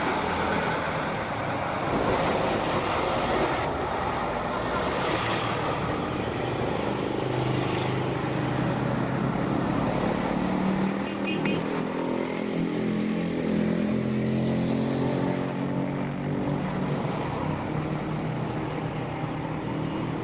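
Jet airliner engines running, a steady loud rush with a low pitched hum that swells in the middle and fades again.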